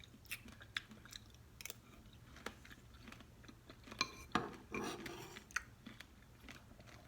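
A person chewing a mouthful of berries and pomegranate seeds in coconut water: faint, irregular wet clicks and small crunches, busier about four seconds in.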